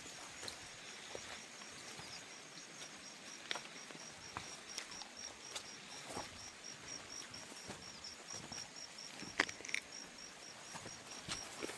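An insect, cricket-like, calling in a fast, even train of high-pitched pulses, with scattered clicks and taps over soft outdoor background noise.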